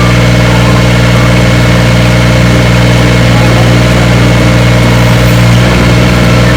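Engine idling steadily at a constant speed, with no revving.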